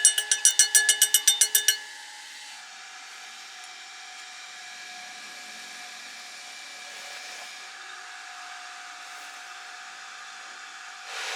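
A steady hiss typical of a stick-welding arc burning, getting louder near the end, after a fast pulsing tone of about five beats a second in the first two seconds.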